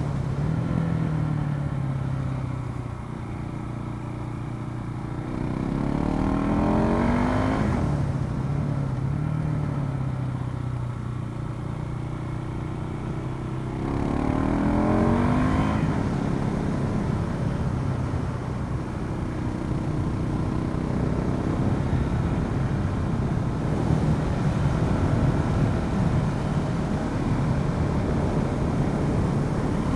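Onboard sound of a KTM 690 SMC supermoto's single-cylinder engine. It climbs in pitch twice as the bike accelerates, about six and fourteen seconds in, then runs steadily at speed under a rush of wind noise.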